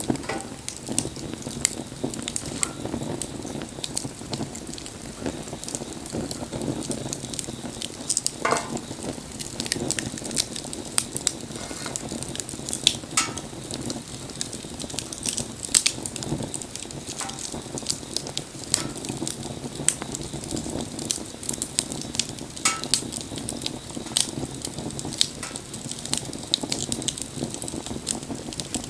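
Wood fire crackling, with many irregular sharp pops over a steady low rush.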